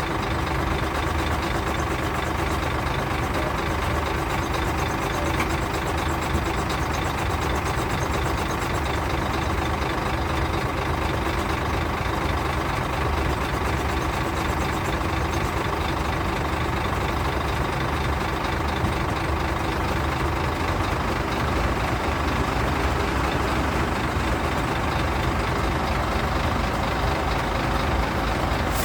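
Diesel engine of a self-loading concrete mixer truck running steadily, with a deep rumble and a constant hum.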